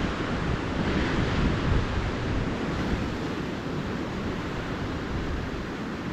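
Ocean surf washing onto a beach in a steady hiss, swelling slightly about a second in, with wind buffeting the microphone as a low rumble.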